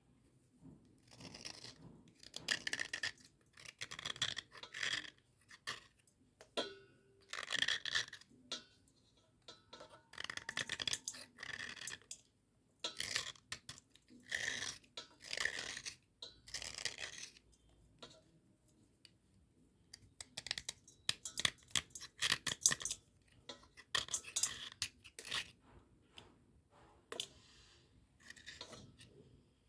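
Cubical Cat brand slate pencils being cleaned dry: repeated scratchy rubbing and scraping strokes in bursts of a second or two, with short pauses between.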